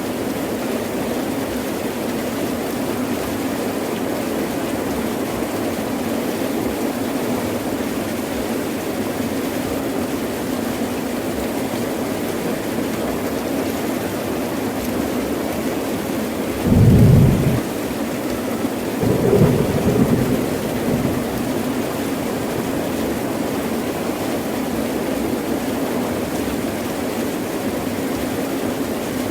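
Heavy rain pouring steadily. About seventeen seconds in comes a short, loud thunderclap, then a second rumble of thunder about two seconds later.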